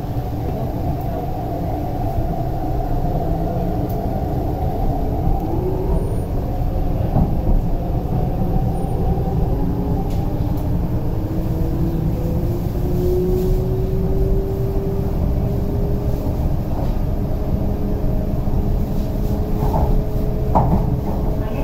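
MTR East Rail Line R-train heard from inside the carriage as it pulls away from a station and accelerates. The electric traction motors' whine rises slowly in pitch over the first dozen or so seconds and then holds steady, over a continuous low rumble of the wheels on the track.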